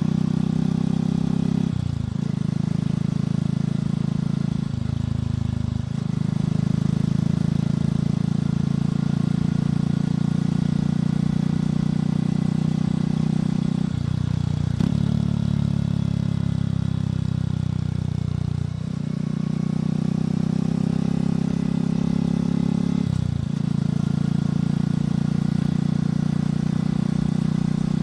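Motorcycle engine and exhaust heard on the move, a steady low note broken by about five short dips where the note drops and picks up again.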